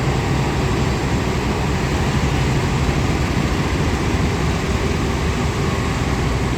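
Train's diesel engine running with a steady low rumble.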